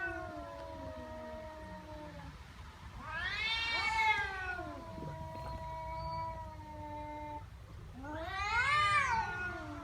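Angry domestic cat growling and yowling in a threat display: long, drawn-out low moans that sag in pitch, broken by two louder wails that rise and fall, about three seconds in and near the end.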